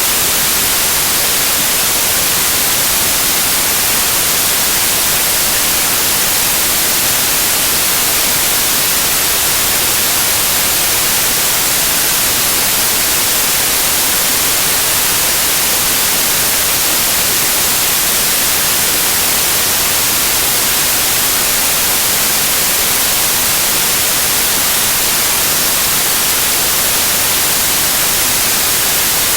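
Loud, steady white noise: an even hiss with no changes, its energy strongest in the high frequencies.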